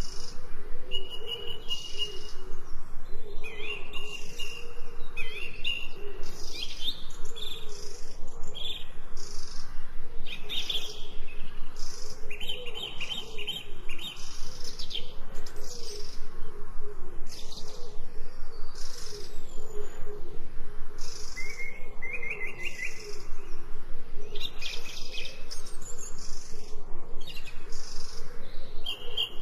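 Birdsong: several birds chirping and trilling in quick, overlapping calls, over a continuous low wavering tone.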